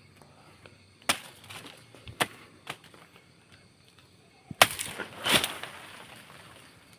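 A few sharp chopping strikes: one about a second in, two lighter ones around two seconds, then the loudest strike near the end followed by a short rasping burst.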